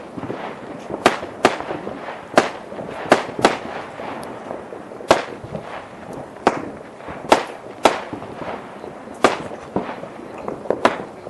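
Fireworks and firecrackers going off: sharp bangs every half second to a second at irregular intervals, over continuous crackling.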